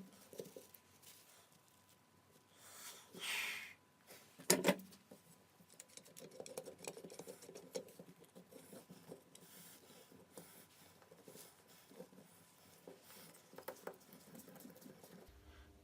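Faint handling sounds of gluing up walnut pieces: a brief hiss about three seconds in, a sharp knock a second later, then a long run of small light ticks and rustles.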